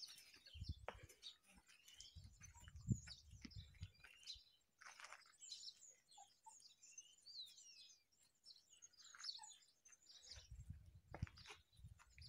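Faint, scattered chirps of small birds, short high calls and a few falling whistles, over near silence, with a few low rumbles.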